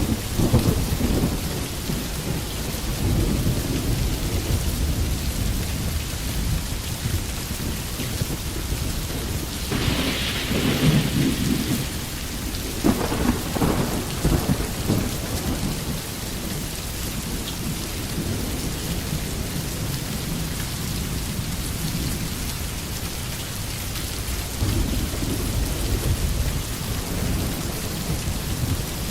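Steady, even rain hiss with low rolls of thunder rumbling at intervals: at the start, twice around the middle, and again near the end.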